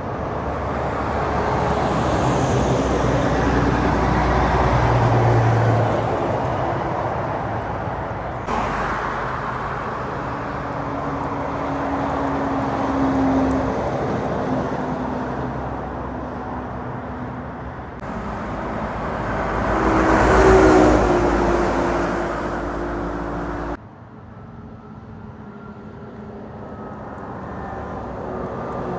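Heavy trucks driving past on a road, their engine and tyre noise swelling as each one nears and fading as it goes. The sound changes abruptly several times where separate clips are joined.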